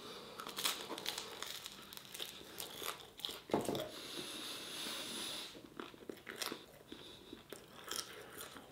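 Close-up biting and chewing of crunchy, well-toasted garlic flatbread, with many short crisp crunches.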